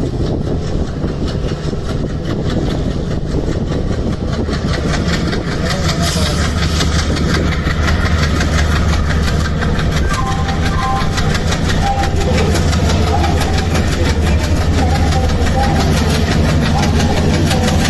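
Train's locomotive running with a steady low hum, getting louder about six seconds in.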